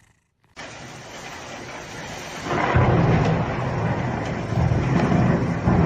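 A steady rushing noise with a deep rumble. It starts abruptly just over half a second in and swells much louder about two and a half seconds in.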